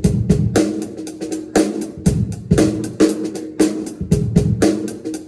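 Drum kit played in a steady groove: bass drum and snare strokes with smaller hits between, accents about twice a second.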